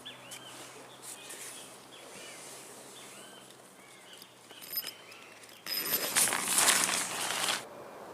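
Birds chirping in short repeated arching calls over a steady outdoor background. About six seconds in, a loud rustling, crunching noise lasts about two seconds, then stops.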